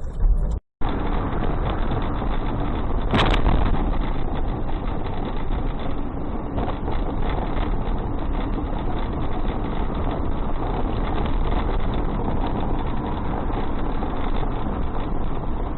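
A car driving, recorded by a dashcam: steady engine and road noise that starts abruptly under a second in, with a single short click about three seconds in.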